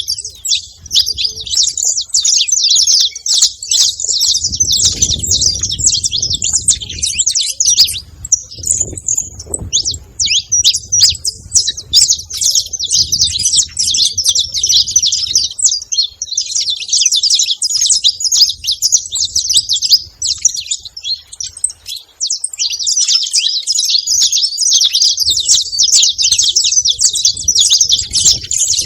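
Saffron finch chirping and singing in a fast, nearly unbroken run of high notes, with short lulls about 8 and 22 seconds in.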